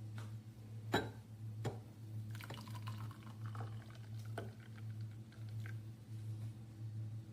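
Cold-press slow juicer's motor humming steadily with a slight pulse. Over it come a few sharp clicks and a stretch of crackling.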